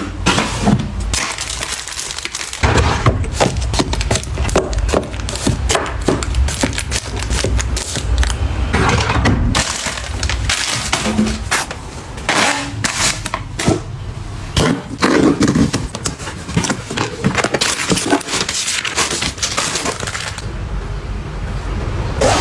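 Dense, irregular clicking, knocking and clattering of objects being handled and set down, with a low rumble underneath from a few seconds in.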